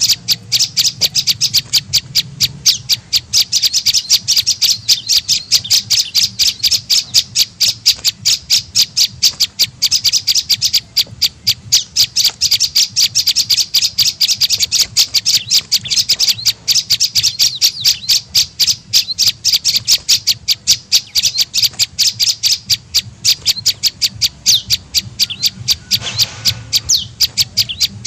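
Prenjak lumut calling in a rapid, unbroken series of short, sharp, high notes, several a second: a bird-lure call recording played to attract the same species.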